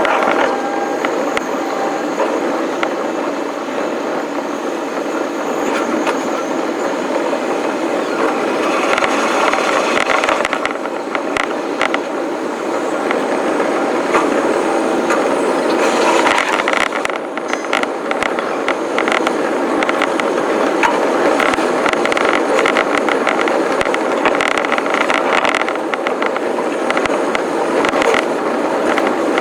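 Electric commuter train running on track, heard from inside the train: a steady rumble of wheels on rails with scattered clicks.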